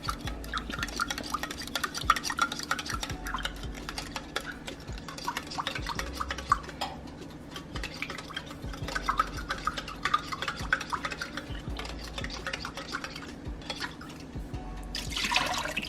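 A utensil stirring and scraping inside a metal soup can, loosening leftover condensed soup into the water: a steady run of small clinks and scrapes, with a louder rushing noise near the end.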